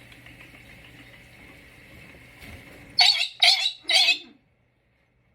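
Pet parrot giving three loud, harsh squawks about half a second apart.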